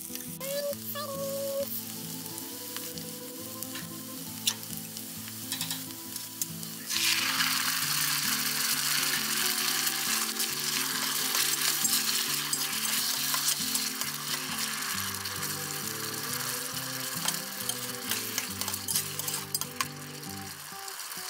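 Food frying in hot oil in a pan, a steady sizzle that suddenly gets much louder about seven seconds in as more goes into the pan, with scattered clicks of stirring.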